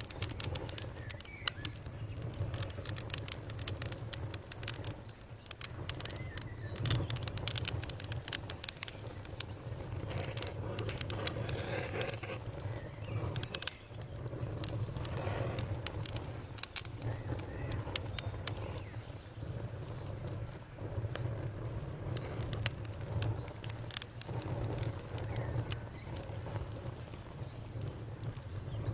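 Wood fire crackling, with frequent sharp pops and snaps over a low steady rumble. Birds chirp now and then, and a faint steady cricket trill sits behind it all.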